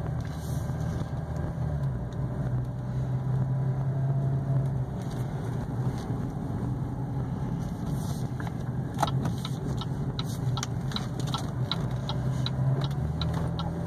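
2014 Cadillac ATS's V6 engine running steadily while driving, heard from inside the cabin along with road noise. Scattered sharp clicks join in during the second half.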